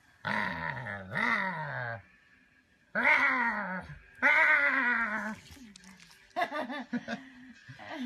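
Dog making a string of drawn-out, wavering grumbling vocalizations, the "talking" kind: about five calls, each around a second long, with the pitch sliding and wobbling, separated by short pauses.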